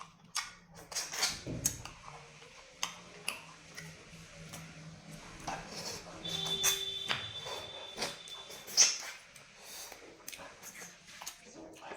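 Close-up eating sounds: chewing, lip smacking and breathing, with many short sharp clicks and smacks, the loudest near the end. A thin steady high tone sounds for about a second and a half in the middle.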